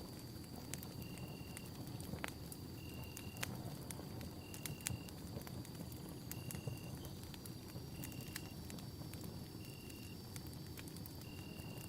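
Campfire burning with a low steady rumble and scattered sharp crackles and pops. A short, high chirp repeats about once a second over a thin steady high tone.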